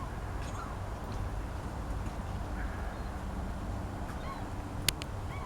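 Shoreline ambience: a steady low rumble with faint, scattered bird calls, typical of ducks or geese. A single sharp click comes near the end.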